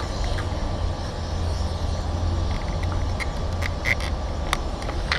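Steady low rumble with scattered sharp clicks and ticks, which come most often in the second half.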